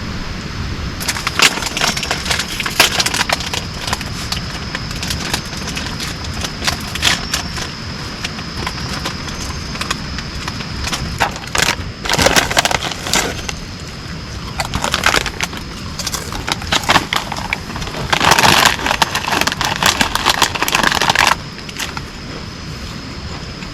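Steady rain hiss with a thin high steady tone, broken by five bursts of dense crackling and rustling, the last and loudest cutting off sharply about three seconds before the end.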